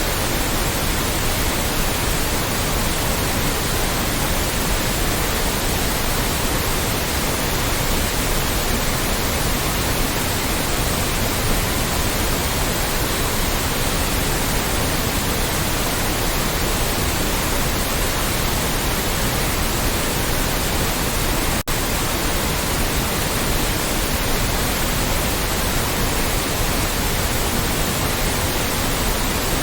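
Loud, steady white noise: an even hiss spread across all pitches, with a split-second dropout about two-thirds of the way in.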